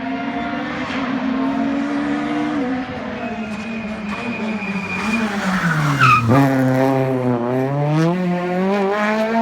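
R2B-class rally car's engine on a stage. It holds steady revs, then its pitch drops over a few seconds as the car slows into a corner, with tyre squeal. It then climbs again as it accelerates out.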